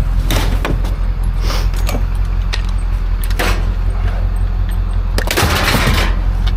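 A steady low motor drone throughout, with scattered metallic clanks and knocks over it, and a longer rattling, scraping burst about five seconds in.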